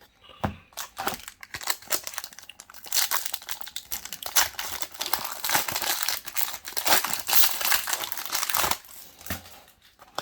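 Foil wrapper of a Pokémon booster pack crinkling as it is torn open and handled. It is a dense run of sharp crackles that thins out near the end.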